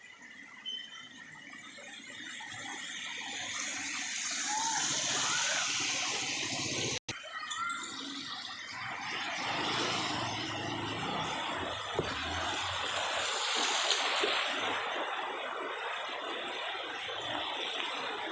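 Floodwater rushing and splashing in a steady wash of noise, cut off for an instant about seven seconds in.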